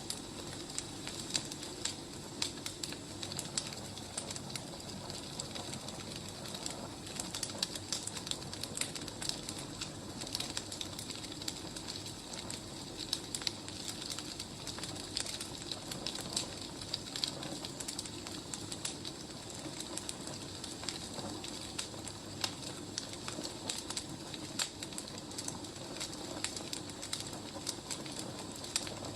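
Wood fire crackling: many small sharp pops and snaps over a steady low background.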